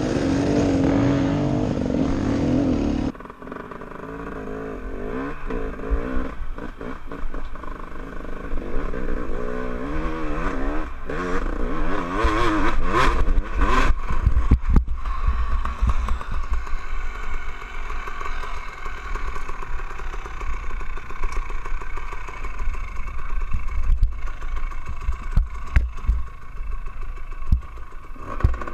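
Enduro dirt bike engine heard onboard, its pitch rising and falling as the throttle is worked over rough ground, with frequent clattering knocks. The sound drops abruptly in level about three seconds in.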